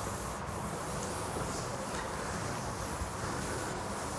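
Steady background noise with a low hum: room tone, with no distinct sound standing out.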